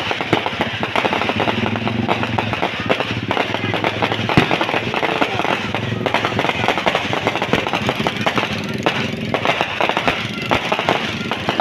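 Fireworks going off in a dense, continuous crackle of rapid pops, with one sharper bang about four seconds in.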